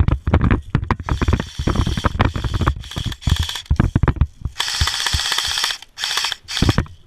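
Clicks, knocks and clatter from an airsoft light machine gun and its electric box magazine being handled, with a sustained mechanical whir lasting just over a second about four and a half seconds in. The box magazine isn't feeding properly.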